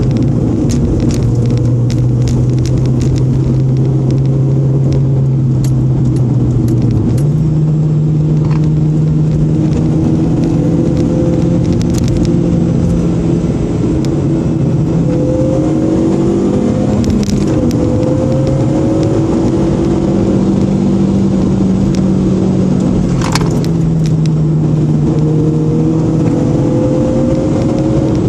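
Rotrex-supercharged Honda engine running under load, heard from inside the cabin, with tyre and road noise. Its pitch steps up about seven seconds in, then rises and falls several times as the throttle changes, with occasional light clicks and rattles.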